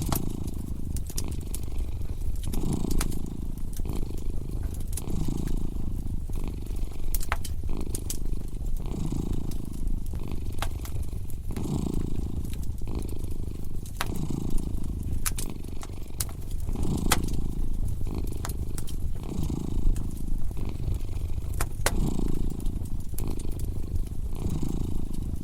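A cat purring steadily, the purr swelling and easing about every two seconds with its breathing. Over it, a wood fire in a fireplace crackles with scattered sharp pops.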